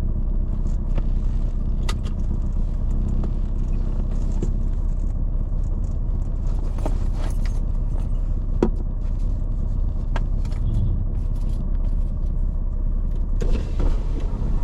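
Car moving slowly: a steady low rumble of engine and tyres, with a few light clicks and rattles.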